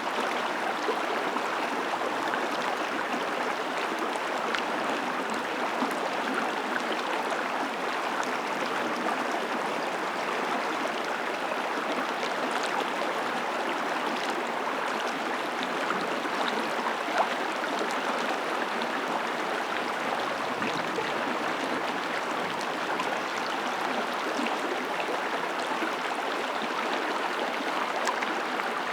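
Mountain creek running: a steady rush of flowing water, with one brief tick a little past halfway.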